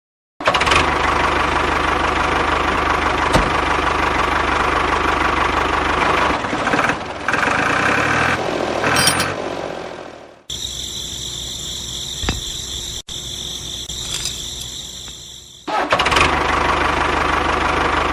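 A small engine running with a steady low chugging. About ten seconds in it cuts abruptly to a quieter stretch with a steady high whine, then the engine sound returns near the end.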